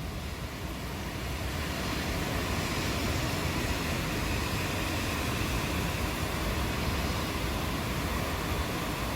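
Steady rainfall, an even hiss, with the tail of a low thunder rumble dying away at the start.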